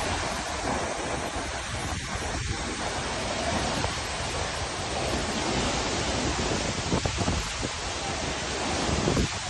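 Waterfall rushing steadily, with wind buffeting the microphone in low, uneven gusts.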